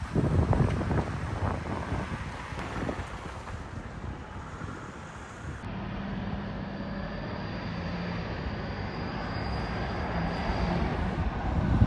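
Heavy vehicle engine running steadily, as from a fire engine at the scene, with wind buffeting the microphone in the first half.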